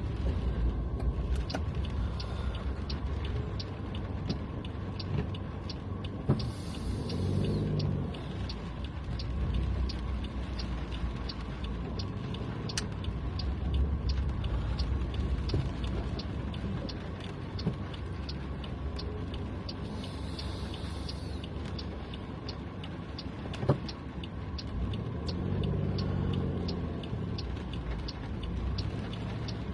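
Car running, heard from inside the cabin: a steady low engine and road rumble, with a quick regular ticking throughout. Twice, about 7 and 20 seconds in, a brief whirring sweep rises over it.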